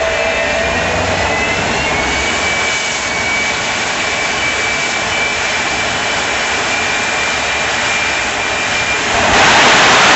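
Jet truck's turbine engine running with a thin whine that slowly rises in pitch over a steady rush. About nine seconds in it jumps suddenly louder into a fuller roar.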